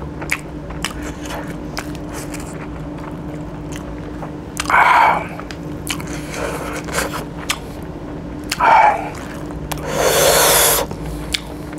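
Close-up eating sounds: chewing and crunching with many small clicks, two short louder mouth sounds near the middle, and a longer rasping scrape about ten seconds in as fingers gather food off a wooden cutting board, over a steady low hum.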